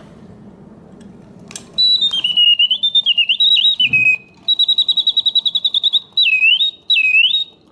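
Antique singing bird automaton whistling its mechanical birdsong. It starts with a click about a second and a half in. A high warbling whistle follows, in short phrases of rapid trills and swooping glides, with brief pauses between them.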